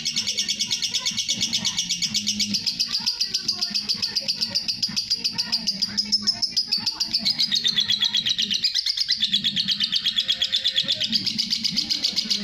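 Lovebird singing a long, unbroken 'ngekek': a fast run of high, chattering repeated notes with no pause, its pitch drifting up and back down along the way.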